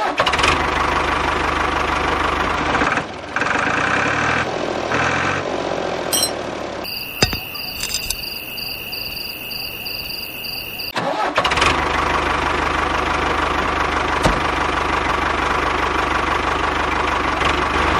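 A small motor runs steadily, the mini tractor's drive. For a few seconds in the middle it gives way to a steady high whine, then the running sound returns.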